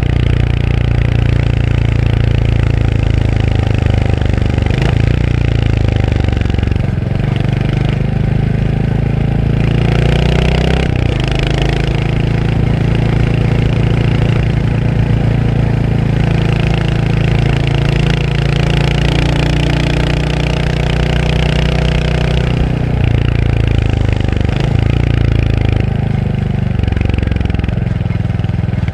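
Royal Enfield Hunter 350's 349 cc single-cylinder engine running under way. Its note steps down and climbs again between about seven and eleven seconds in, then holds steady.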